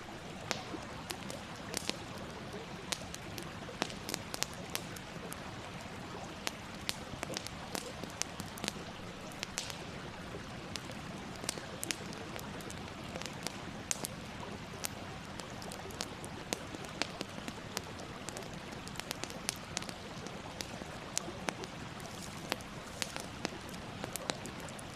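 Wood fire burning: a steady hiss with irregular sharp crackles and pops, several a second.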